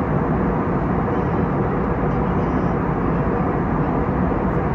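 Steady cabin noise inside an Airbus A321neo in flight: an even rush of airflow and engine sound with a faint steady hum underneath.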